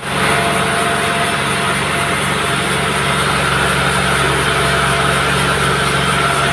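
Sawmill machinery running steadily, a constant engine-like hum.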